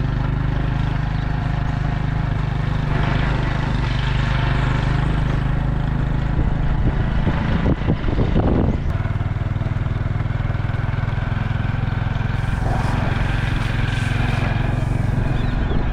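Motorcycle engine running steadily while riding, with its note changing briefly about halfway through.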